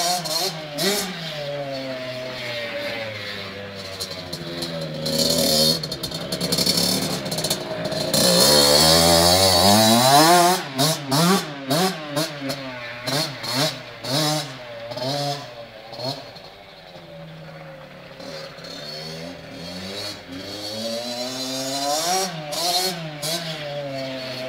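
Kawasaki KX60 motocross bike's small single-cylinder two-stroke engine revving up and down over and over as it rides. It is loudest about a third of the way in as it comes close, fades for a while, then grows louder again near the end.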